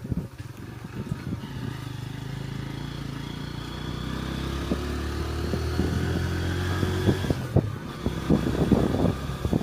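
A motor vehicle's engine running steadily, growing gradually louder over several seconds, then fading out about seven and a half seconds in. There is rough buffeting noise at the start and end.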